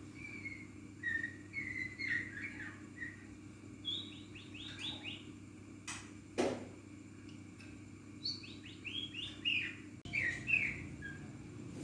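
Small caged songbird chirping and singing canary-like phrases: short high chirps and two quick trills of falling notes, one about four seconds in and one near eight and a half seconds. About six and a half seconds in comes a single sharp falling sweep.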